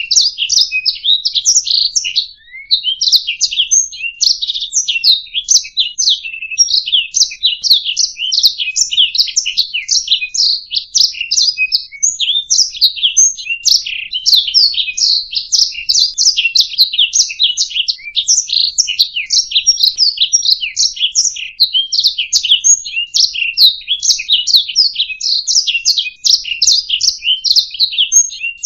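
Domestic canary singing: a long, fast, almost unbroken run of high chirps and trills, with only a brief pause about two seconds in.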